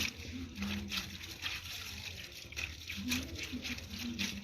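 Clothes being hand-washed in soapy water: wet fabric rubbed and squeezed, with irregular splashing and sloshing several times a second.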